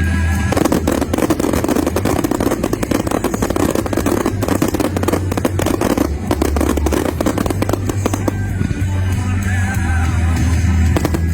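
Fireworks crackling densely, with rapid snaps and pops, over music with a steady bass; the crackling thins out about eight seconds in, leaving mostly the music.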